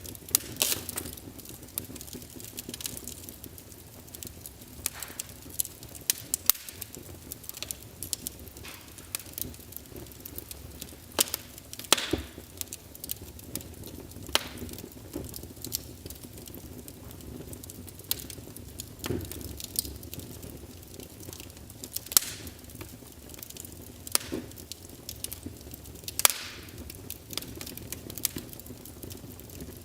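Wood fire burning in a fireplace: a low steady rumble of flames with irregular sharp crackles and pops, a few louder snaps among them.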